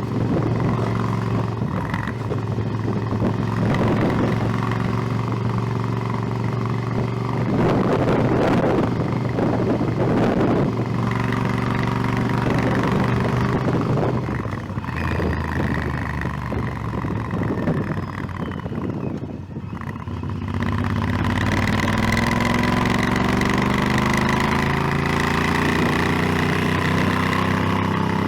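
Motorcycle engine running under way, with gusts of wind noise on the microphone. About twenty seconds in, the engine briefly drops off, then its pitch climbs steadily as the bike accelerates.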